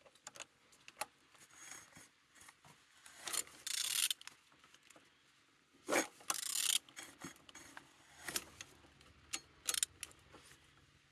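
Opel X16XEL 1.6-litre four-cylinder engine being turned over by hand: irregular clicks and rubbing, scraping metal noises, loudest about three and six seconds in. The engine turns freely.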